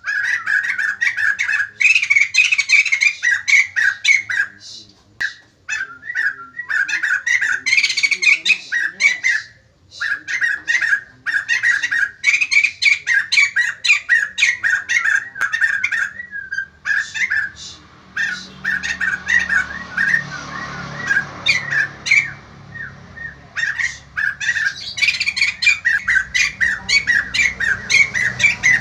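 White-crested laughingthrush singing hard: loud runs of rapid, chattering, squawky notes in bursts of a few seconds with short breaks.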